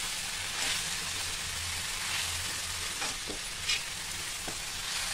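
Chopped okra sizzling in oil in a metal kadhai while a metal spatula stirs it, with several scrapes of the spatula against the pan.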